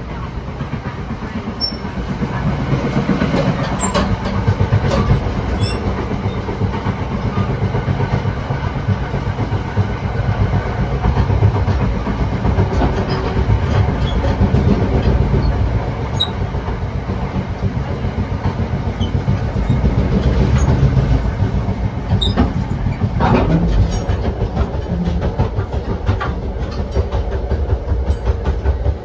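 Inside a moving NJ Transit Comet passenger coach: a steady low rumble of wheels on rail, with small clicks and rattles of the car body and wheels over the track, as the train runs into a station.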